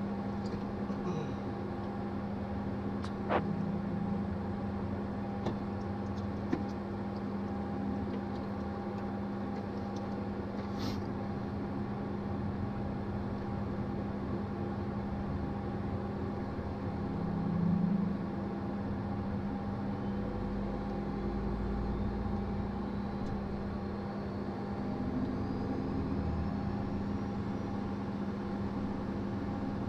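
A Hawker 800XP's right Honeywell TFE731 turbofan starting, heard in the cockpit. There is a steady droning hum, with a few switch clicks in the first seconds and a faint whine that rises slowly in pitch in the second half as the engine spools up.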